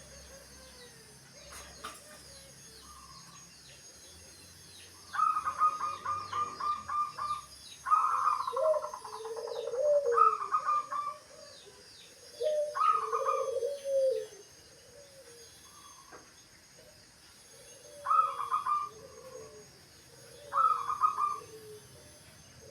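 Zebra doves (perkutut) cooing in about five bursts of rapid staccato notes, with lower slurred coos between them. Faint high chirps of small birds run through the background.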